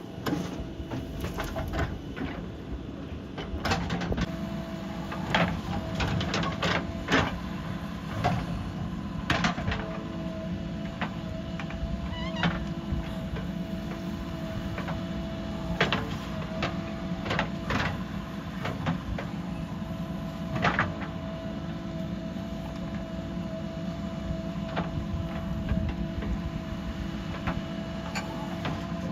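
Diesel engine of a JCB 3DX backhoe loader running steadily under work, with a steady hydraulic whine over it. Scattered sharp metal clunks and knocks come every second or two.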